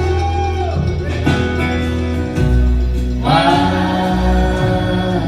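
Acoustic folk-Americana band playing live between sung lines: a held melody note over a steady low bass, with a new sustained note entering about three seconds in.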